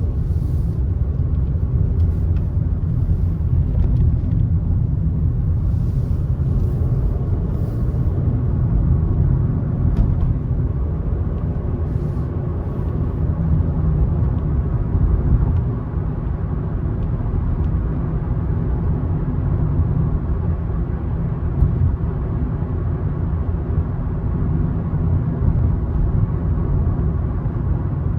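A car driving along at a steady pace: a constant low rumble of engine and tyre road noise.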